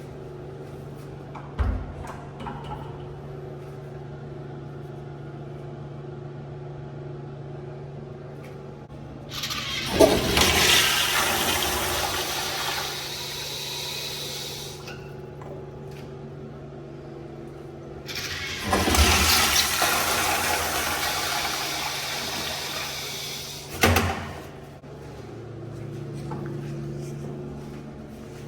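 Two flushes of a wall-hung commercial toilet on a flushometer valve, one after the other. Each starts abruptly with a loud rush of water that fades away over several seconds. A sharp thump comes near the end of the second flush.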